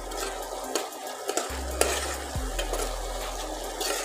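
A metal spoon stirring and scraping onion-and-spice masala frying in oil in a pot, with a steady sizzle throughout. A low hum from the induction cooktop cuts out for about half a second about a second in, then returns.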